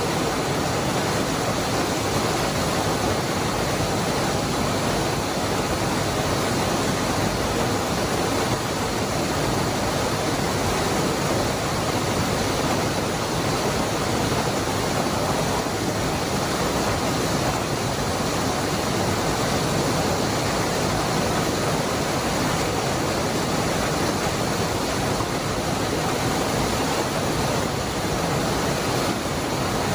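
Waterfall: water falling and splashing in a steady, unbroken rush that neither swells nor fades.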